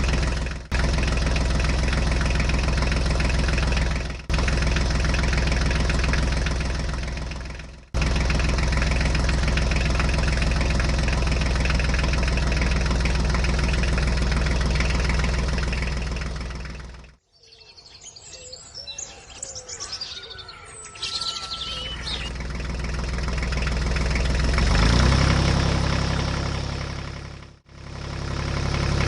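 Tractor engine idling steadily across several abrupt edits. It fades out partway through, and a few seconds of birds chirping follow before the engine sound returns and swells.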